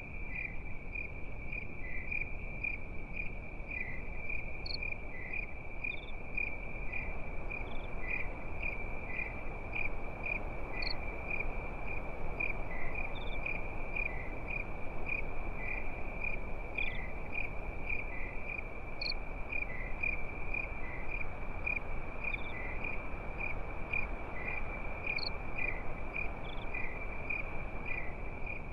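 Crickets chirping steadily in a fast, even pulse, with a higher single chirp every six seconds or so, over a soft, even background hiss.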